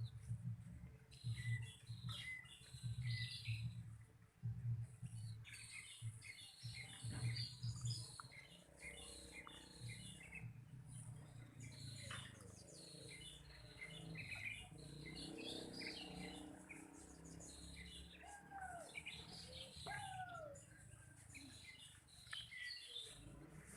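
Small songbirds chirping in short, repeated high notes, with a couple of downward-sliding calls late on. A pulsing low rumble runs under the first several seconds.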